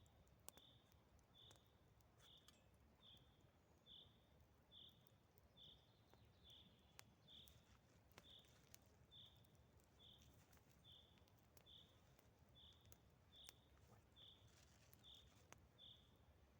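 Faint, high chirp repeated evenly about twice a second from a small animal in the forest, with a few soft clicks scattered through it.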